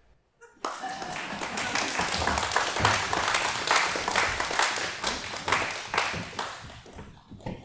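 Audience applauding: it breaks out suddenly about half a second in, builds, then dies away near the end.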